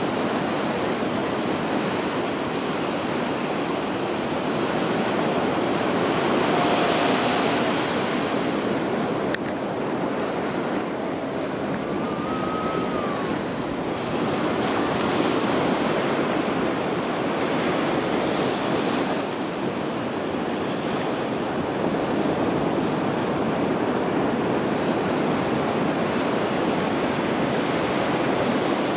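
Sea surf washing steadily onto a sandy beach, with wind buffeting the microphone. Two faint short gull calls rise above it, about a quarter and nearly halfway through.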